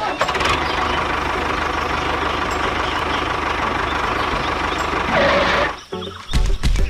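A DIY mini tractor's small motor running steadily with a rapid, even pulsing. It stops suddenly near the end.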